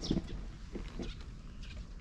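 Small birds chirping in the background with short, high, falling calls, one about two-thirds of the way in. Brief low knocks of handling near the start and about a second in.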